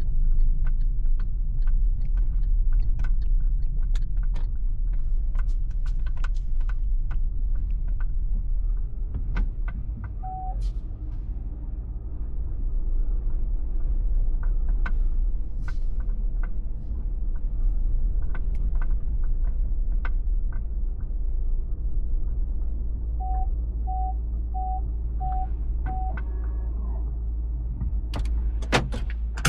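MG ZS Hybrid+ on the move: a steady low road rumble with many small knocks and clicks, and a low hum of several tones setting in about halfway through. A single short electronic beep comes about ten seconds in, and five short evenly spaced beeps come near the end.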